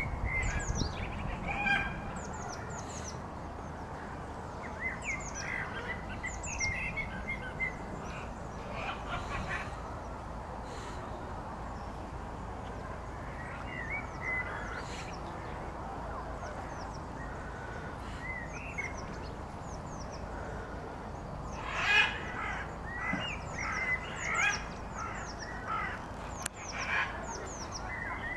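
Birds chirping and calling over a steady outdoor background noise, many short high chirps scattered throughout, with a louder cluster of calls about three-quarters of the way through.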